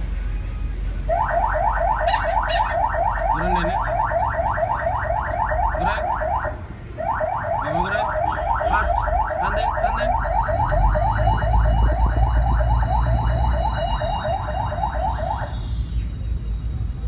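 An electronic alarm warbles in rapid repeated chirps, about ten a second, in two long runs with a brief break about six and a half seconds in. Under it runs the low rumble of a car engine, which grows louder for a few seconds in the second half.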